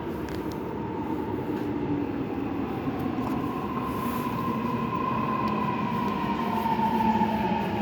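Gyeonggang Line electric subway train pulling into the station, growing louder as it comes in. A whine from its motors and brakes falls slightly in pitch as it slows.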